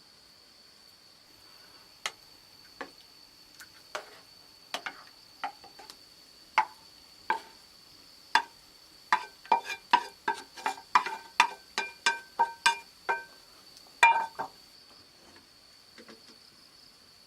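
A series of sharp knocks, each with a short ringing tone, coming quickest near the middle at about three a second, with one loudest knock near the end. Under them runs a steady high insect whine.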